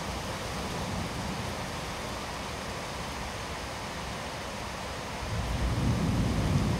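Torrential rain from a sudden cloudburst, a steady hiss of rain. About five seconds in, a louder low rumble builds under it.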